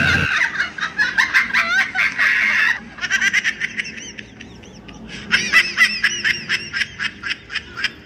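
Rapid squawking, cackling bird-like calls in quick sliding chirps. They are loudest for the first few seconds, drop away, then come back in a second loud spell of higher squeals before cutting off abruptly.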